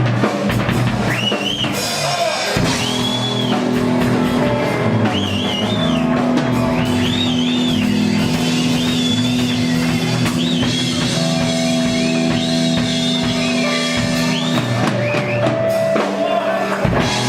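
Blues-rock band playing: a lead guitar bends and holds high wavering notes over bass and a drum kit.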